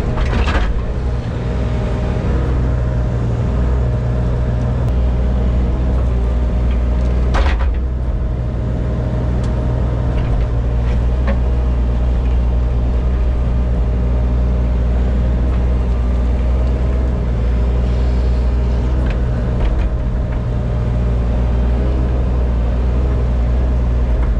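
Engine of a compact earthmoving machine running steadily, with a couple of brief knocks, one just after the start and one about seven seconds in.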